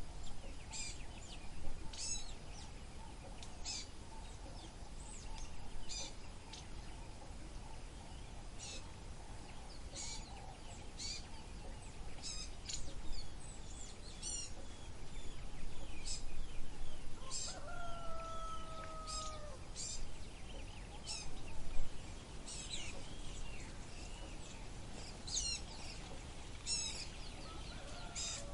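Birds chirping in many short, high calls, with one longer, slightly falling call about eighteen seconds in, over a steady low background noise.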